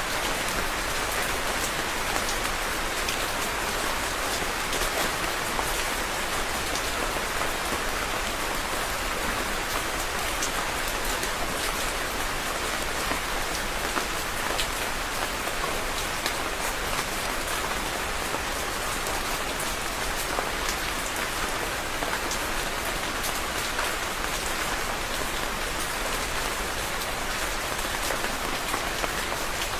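Steady rain falling, a constant even hiss with many small drops ticking on a surface.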